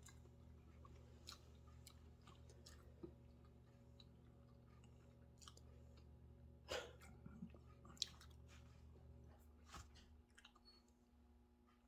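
Faint chewing and small mouth clicks of someone eating garlic parmesan chicken wings, with a couple of louder clicks past the middle. Under it runs a low steady hum that stops about ten seconds in.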